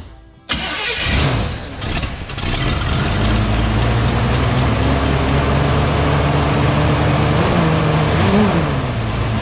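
A few sharp knocks in the first second, then the 1964 Buick LeSabre's V8 engine running steadily, with a brief rise and fall in engine pitch near the end.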